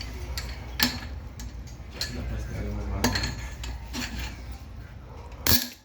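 Metal hand tools clinking and knocking against a motorcycle engine during top-end disassembly, a few separate sharp strikes with the loudest near the end, over a steady low hum that cuts off suddenly.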